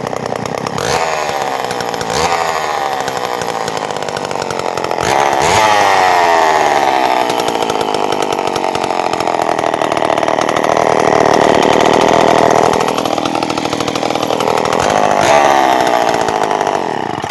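Poulan 306A two-stroke chainsaw power head, fitted with no bar or chain, running after being started and revved up and down repeatedly, with quick throttle blips early on and longer high-revving stretches through the middle.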